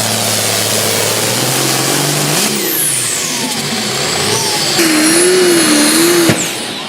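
High-horsepower pulling engines running hard over several quick cuts between runs, with whines that fall in pitch as the revs drop and a wavering whine near the end.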